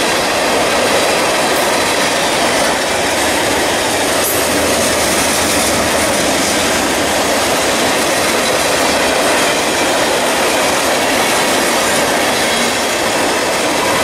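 Mixed freight train cars (covered hoppers, tank cars and boxcars) rolling past: a steady, loud rumble and rattle of steel wheels on rail.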